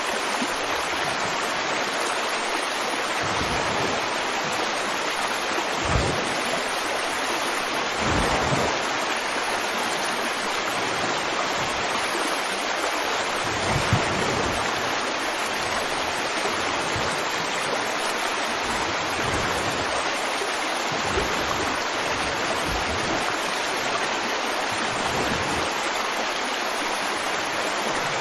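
River water flowing steadily over rocks with a constant rushing, broken by a few brief low thumps or gurgles.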